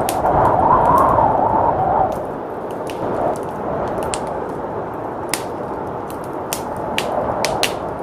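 Wood fire crackling with scattered sharp pops, over a steady blizzard wind that swells into a louder gust in the first two seconds.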